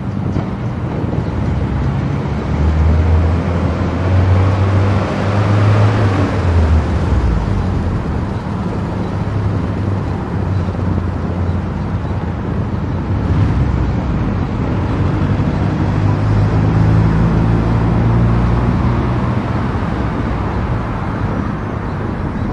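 Car travelling at expressway speed: steady tyre and road noise with a low drone, swelling about six seconds in.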